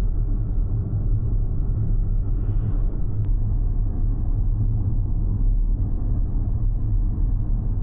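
Steady low rumble of a vehicle in motion. A faint short hiss comes about two and a half seconds in, and a single click just after three seconds.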